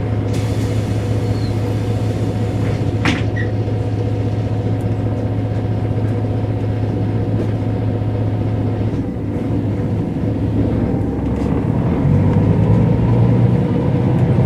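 Mercedes-Benz O405 N² city bus diesel engine idling steadily, heard from inside near the rear, with a short air hiss near the start and a sharp clack about three seconds in. About nine seconds in the engine note dips, then rises in pitch and loudness as the bus pulls away and accelerates through its Voith automatic gearbox.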